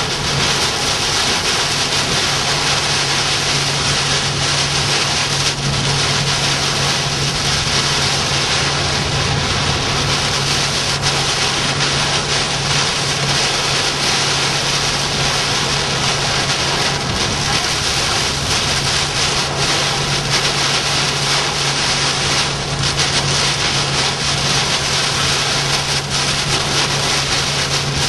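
Steady rush of wind and rain with a low, steady vehicle drone underneath, unbroken throughout.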